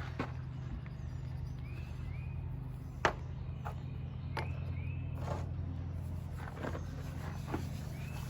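Outdoor background: a steady low hum, a few soft knocks, and a bird's short two-note call repeated three times.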